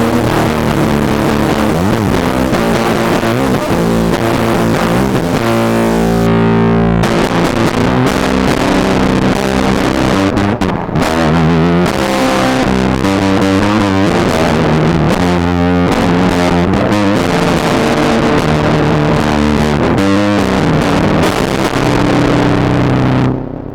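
Electric guitar played through a homemade distortion pedal built from a circuit-bent Whisper 2000 hearing aid's amplifier: heavily distorted, sustaining notes and chords. The level dips briefly near the end.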